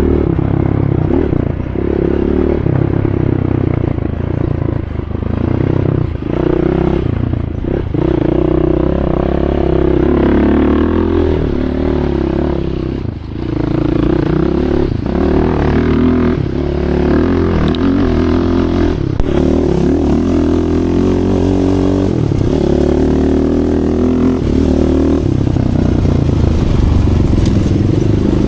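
Racing ATV engines running under throttle, their pitch rising and falling as the riders work the throttle, with a brief dip about 13 seconds in.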